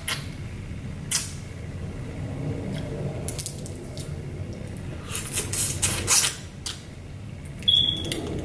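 Close-miked eating sounds: chewing, lip smacks and sharp wet mouth clicks as a mouthful of seafood-boil food is eaten, with a cluster of clicks about five to six seconds in. A short high-pitched squeak comes near the end.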